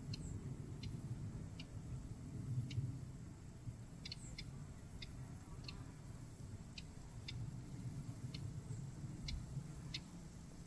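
Common whitethroat giving dry ticking calls, short sharp ticks at an uneven pace of about one or two a second, over a low background rumble.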